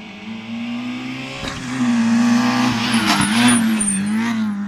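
Small Fiat rally car's engine revving hard on a stage, its pitch rising and dipping with the throttle and growing louder about two seconds in as the car comes closer.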